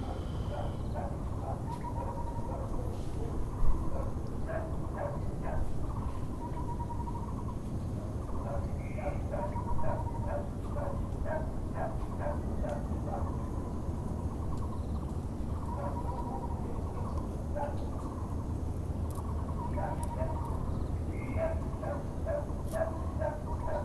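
Müller's barbet (Taiwan barbet) calling in series of short, hollow, owl-like notes, repeated about two to three a second, in several runs. Other birds give short higher notes, over a steady low background rumble, with one brief sharp knock about four seconds in.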